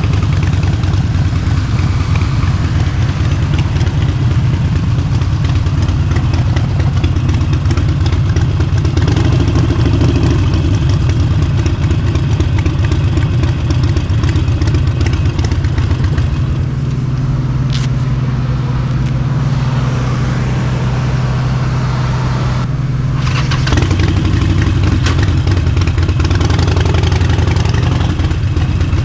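Harley-Davidson Forty-Eight's air-cooled V-twin running through an aftermarket exhaust, with a loud, pulsing beat. A little past the middle it settles to a steadier, slightly quieter low note for several seconds, then picks up again.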